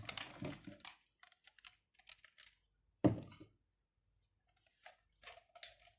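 Scattered light clicks and rustles of objects being handled, with one sharp knock about three seconds in.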